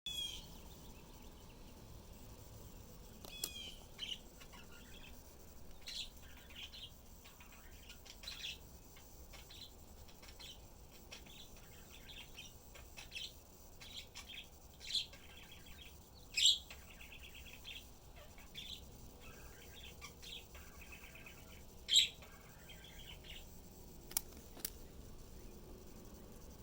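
Small birds chirping: short high calls every second or two, two of them louder, with a few sharp clicks in between.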